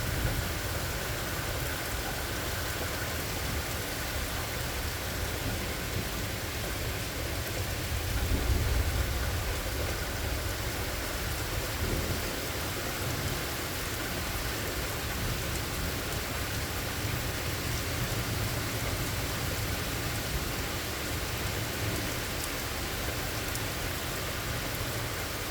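Steady rain falling, with low rolling thunder that swells to its loudest around a third of the way in and then fades back under the rain.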